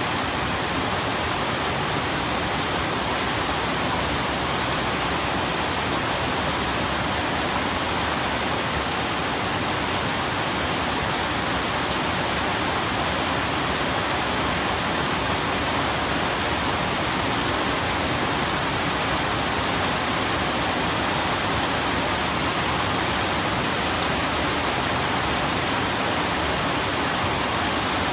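Steady rain: an even, unbroken hiss of falling rain with no separate drops or thunder standing out.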